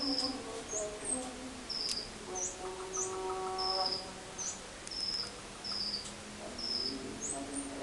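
Caged songbirds calling: a steady run of short, high chirps and upturned notes about twice a second, over a layer of lower whistled notes that is fuller in the first half and thins out later.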